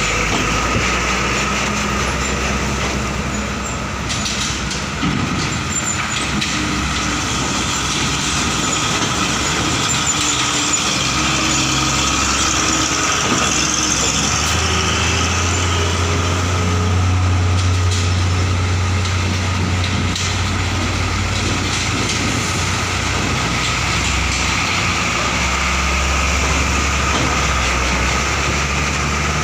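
Heavy truck diesel engines running as trucks pull out of a ferry's vehicle deck, a steady engine drone whose low rumble swells about halfway through and again near the end.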